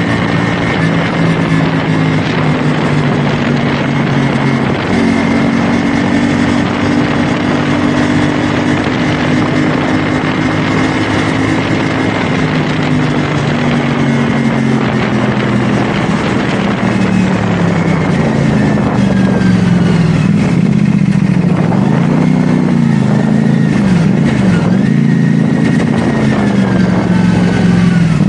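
CFMoto 450SR S parallel-twin engine running as the bike is ridden, with wind rushing over the microphone. The engine note holds steady, drops as the bike slows about halfway through, then rises and falls a few times before settling.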